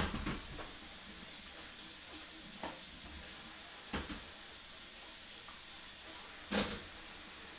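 Kitchen tap running while a knife is washed, a steady hiss with a few knocks of the knife against the sink; the loudest knock comes about six and a half seconds in.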